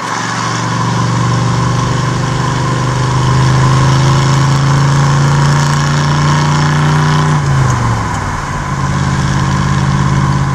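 Chevrolet Impala's engine pulling uphill under load, heard from inside the cabin. Its note climbs slowly, drops about seven seconds in, then runs steady at the lower pitch.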